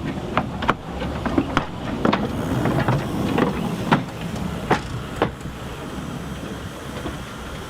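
Narrow-gauge steam train on the Talyllyn Railway running along, a steady rumble with irregular sharp clanks and knocks from the wheels and couplings that die away about five seconds in.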